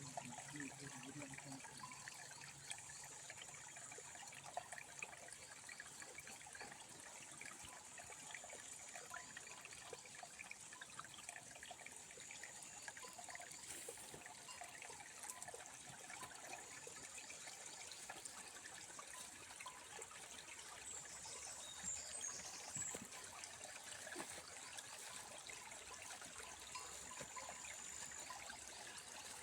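River water trickling and burbling, a steady running-water sound full of small splashes. A thin high tone comes and goes several times, and a few short high chirps sound about twenty-one seconds in.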